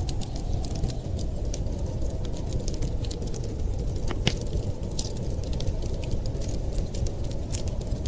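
Wood fire crackling: many sharp, irregular snaps and pops, one louder pop about four seconds in, over a steady low rumble.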